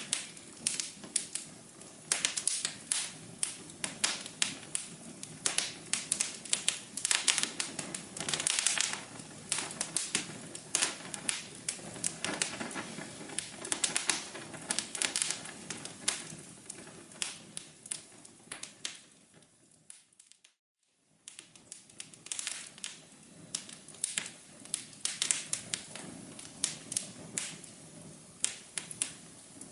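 Wood fire crackling with dense, irregular sharp snaps over a low rumble. About two-thirds of the way through it fades away, drops out for about a second of silence, and then comes back suddenly.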